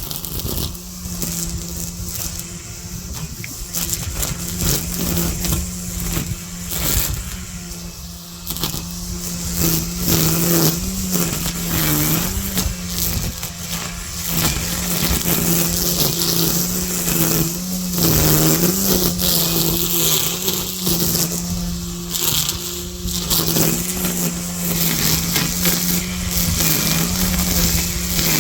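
Gas string trimmer (weedeater) running at high throttle. Its small two-stroke engine holds a steady high pitch that sags briefly a few times as the line bites into the weeds.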